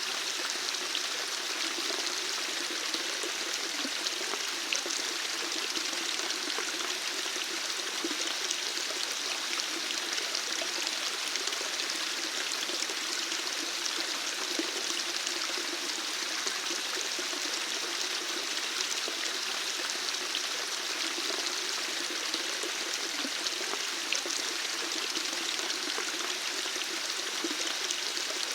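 Running water flowing and splashing steadily, an even rushing sound with small bright flicks of droplets and no change throughout.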